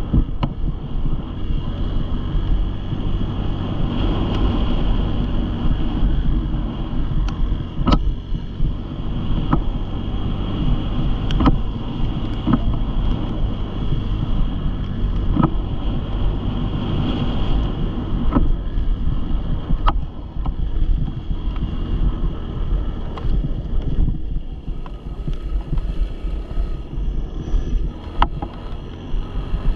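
Dirt bike engine running steadily, with wind buffeting the microphone and scattered sharp clicks.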